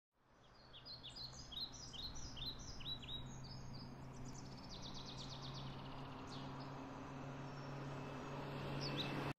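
Birds chirping outdoors, fading in about a second in: many short falling chirps over the first few seconds, then a quick run of chirps in the middle and a single chirp near the end, over a faint outdoor ambience with a low steady hum.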